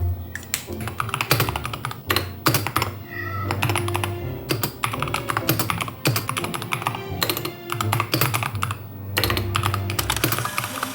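Typing on a computer keyboard: an irregular, fairly fast run of key clicks that goes on throughout.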